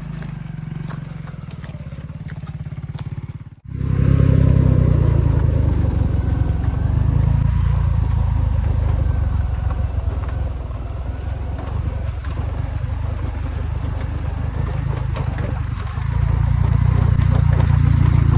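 Motorcycle engine running while riding. It cuts out abruptly for a moment at about three and a half seconds, comes back louder, and grows louder again near the end.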